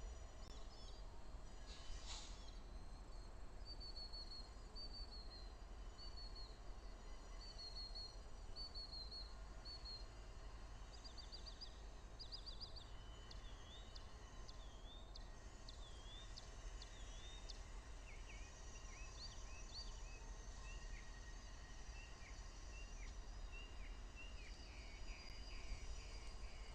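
Birds chirping and calling in short repeated phrases over a steady low background rumble.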